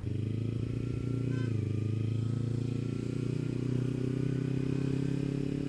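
Kawasaki Ninja 300's parallel-twin engine running at a steady, even pitch while the bike is ridden along, breathing through an Akrapovič slip-on exhaust.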